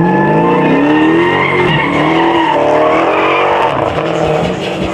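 A car engine revving up and down under hard throttle with tires squealing, as in a burnout or donut.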